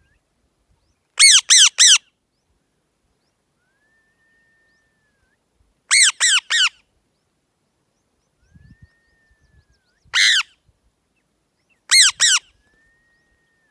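Pet parrot squawking in short groups of harsh calls: three quick squawks, three more, a single longer one, then two more near the end.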